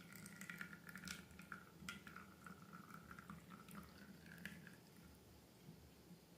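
Faint wet clicks and squishes of sticky slime being handled and poured, with small crackles scattered through and a thin wavering squeak underneath.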